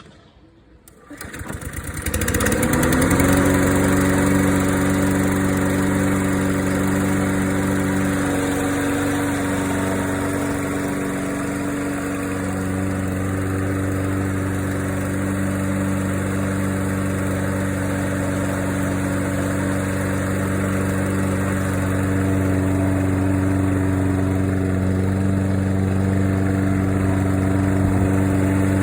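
Toro Personal Pace self-propelled lawn mower engine pull-started, catching about a second in, rising in pitch and settling into a steady run. The blade turns freely once the clump of grass that had jammed it is cleared.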